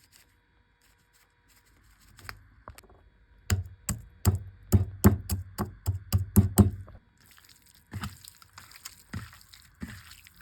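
A quick run of sharp knocks, about three a second, lasting roughly three seconds, then a few scattered softer knocks.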